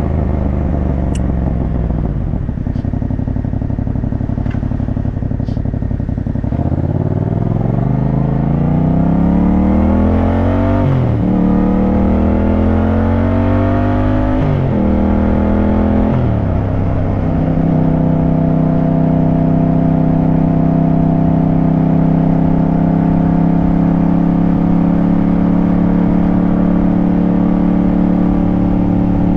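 Motorcycle engine, a Yamaha CP2 689 cc parallel twin, easing off and then accelerating hard up through the gears. The revs climb and drop sharply at three upshifts. From about halfway it settles into a steady cruise.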